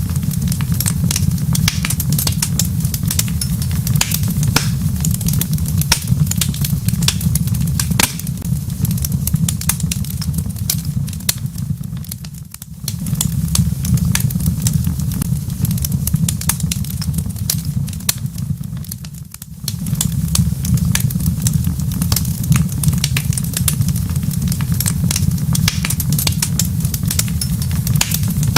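Wood fire in a fireplace crackling, with many sharp pops over a steady low rumble. The sound briefly drops away twice, a little under halfway through and again about two-thirds through.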